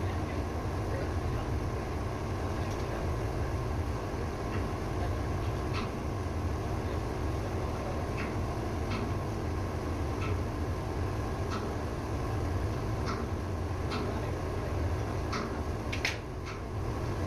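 Ship's auxiliary engine running with a steady low rumble and a faint steady whine, with irregular light metallic clicks or taps over it, the loudest near the end.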